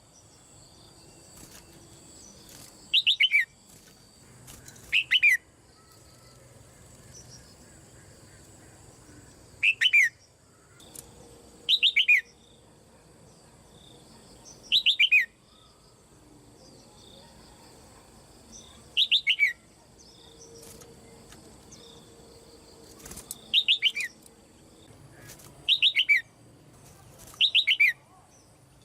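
Female red-whiskered bulbul calling: short, quick falling calls, each a rapid run of notes, repeated about nine times at intervals of two to five seconds.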